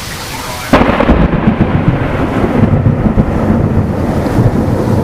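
A close thunderclap breaks in suddenly under a second in and rolls on as a loud, low rumble, over the steady hiss of heavy wind-driven rain from a severe thunderstorm.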